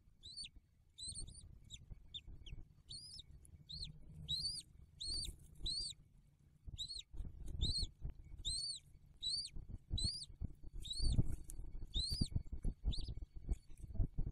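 A bird chirping in a steady series of short, high, arched chirps, about one to two a second. Under it, an adult bald eagle shifts about on the stick nest, making rustling and bumping sounds, with louder thumps in the second half.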